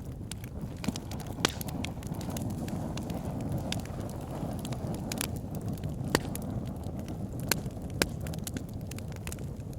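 Campfire burning: a steady low rush of flames with scattered sharp crackles and several loud pops from the burning wood.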